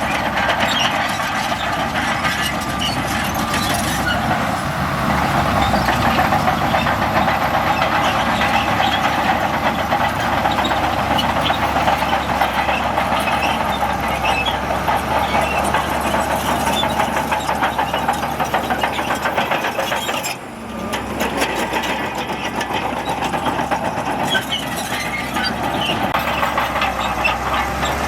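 Heavy diesel earthmoving machinery working, a steady engine drone with many small clanks and rattles; it drops off briefly about twenty seconds in.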